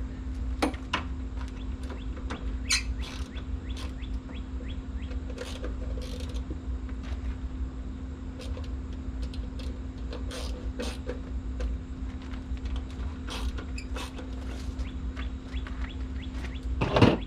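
Scattered clicks, taps and creaks of hand-work adjusting the mounting of a car's rear spoiler, with a louder knock near the end, over a steady low hum.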